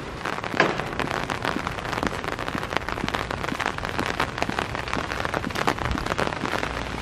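Rain falling, with a dense, irregular run of sharp drop ticks.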